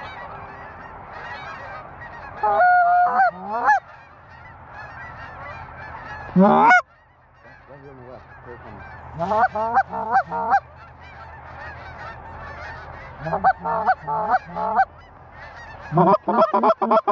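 Geese honking and clucking in fast runs of short notes, several quick series with one longer honk in between, loud and close.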